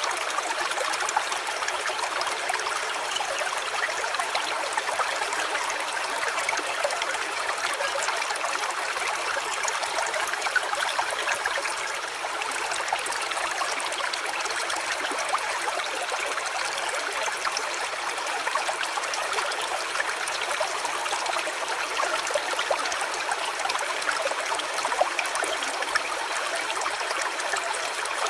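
A small stream trickling and babbling steadily, with no clear birdsong standing out.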